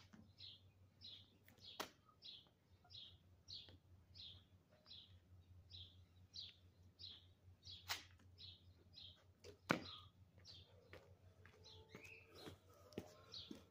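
A small bird chirping the same short, high note over and over, about twice a second, faint. A few sharp taps cut in, the loudest near the middle.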